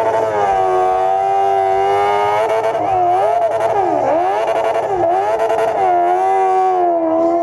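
Motorcycle engine revving and held at high revs, its pitch dipping sharply and climbing back as the throttle is eased and reopened, about three and four seconds in and again near the end.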